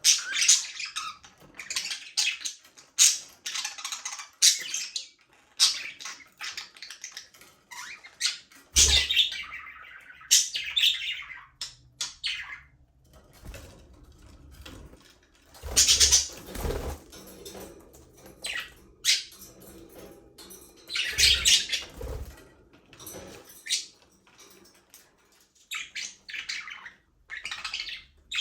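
A flock of budgerigars chirping and chattering, with short high calls and squawks overlapping in bursts, and a few low thumps among them.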